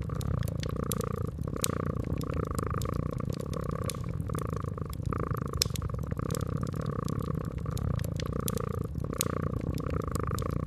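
Domestic cat purring steadily, the purr swelling and easing in long cycles with its breathing. Scattered small crackles and pops from a wood fire run over it.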